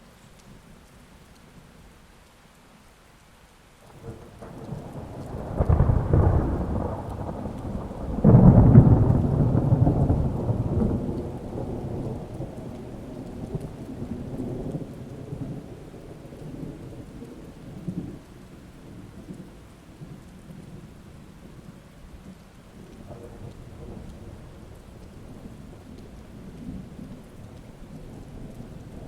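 Steady rain, then a peal of thunder: a low rumble builds a few seconds in, breaks into two heavy claps close together, and rolls away slowly while the rain keeps falling.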